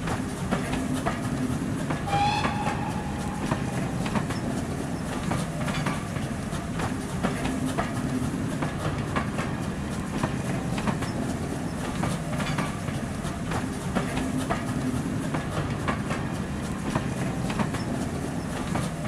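A train running past with a steady low rumble and repeated clickety-clack of wheels over rail joints, and a short high squeal about two seconds in.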